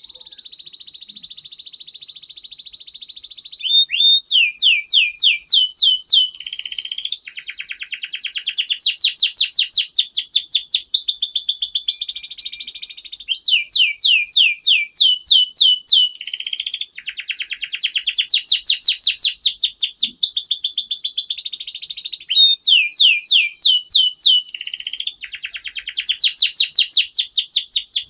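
Domestic canary singing a long, unbroken song: a held high trill, then phrase after phrase of fast repeated sweeping notes, about six a second, each run lasting a few seconds before the bird switches to the next.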